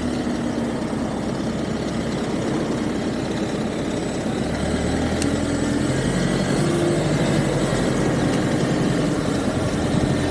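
Traffic and riding noise heard from a moving e-bike on a city road: a steady rushing haze with the hum of nearby vehicle engines, getting a little louder about halfway through.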